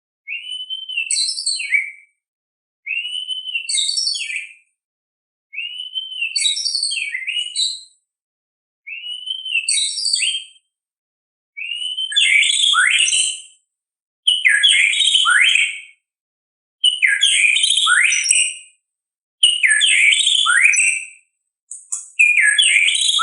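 White-rumped shama (murai batu) singing, a song recording of the kind used to train caged songbirds: short phrases about every two and a half seconds, each a whistled arc followed by high twittering notes. From about halfway the phrases grow louder and add quick downward-sweeping whistles.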